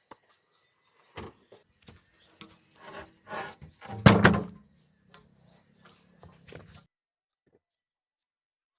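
Scattered wooden knocks and thuds from timber construction work, the loudest about four seconds in, then silence for the last couple of seconds.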